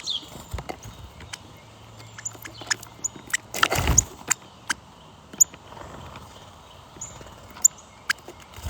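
Small birds chirping: scattered short, high notes that slide downward, with sharp clicks between them. A loud burst of rustling noise comes about three and a half seconds in.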